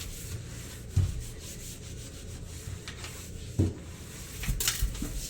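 A damp microfibre cleaning glove rubbing back and forth over a microwave part, a steady scrubbing noise, with a couple of low knocks about a second in and past the middle as the part is handled.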